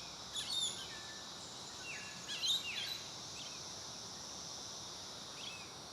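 Small birds calling in short chirpy phrases, three brief groups with the loudest about two and a half seconds in, over a steady high drone of insects.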